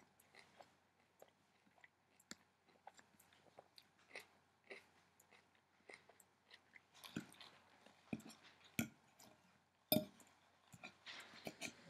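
A person chewing a mouthful of raw kale salad: soft crunches and wet mouth clicks at an uneven pace, louder in the second half, with one sharp click about ten seconds in.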